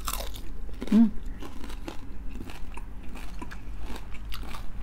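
Close-up crunching and chewing of crispy pata (deep-fried pork leg) and its crisp skin: many sharp crunches, with a short hum from the eater about a second in.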